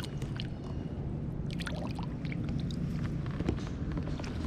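Small clicks and knocks with faint water sounds around a fishing kayak, over a steady low background noise.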